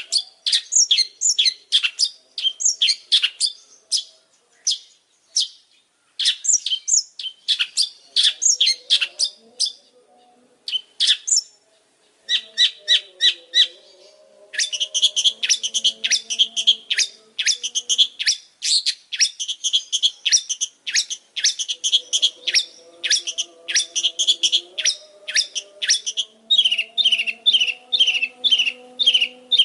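Long-tailed shrike (pentet) singing vigorously: a fast run of sharp, chattering notes, several a second, with short breaks about four seconds in and again around ten to twelve seconds, then a dense unbroken stretch from about fifteen seconds on.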